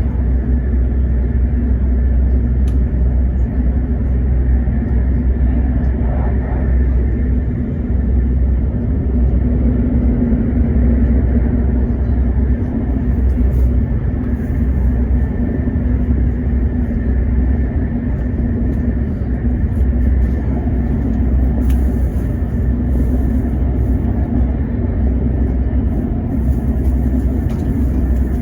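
Steady running noise of a Hokuriku Shinkansen train heard from inside a passenger car: a deep, even rumble with a steady hum.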